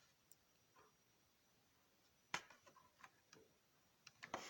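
Near silence broken by a few light clicks and ticks of a carded die-cast toy car being handled in its plastic blister pack, the sharpest about two and a half seconds in with a short run of smaller ones after it.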